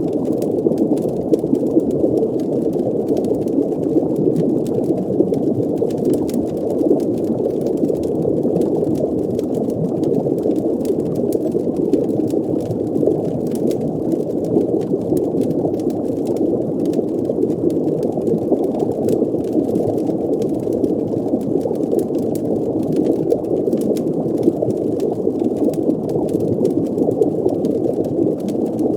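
Underwater ambience: a steady muffled watery rumble with bubbling and scattered faint ticks.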